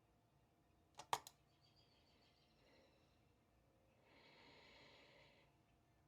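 Near-quiet room: a quick cluster of three sharp clicks about a second in, then a faint, soft hiss a few seconds later.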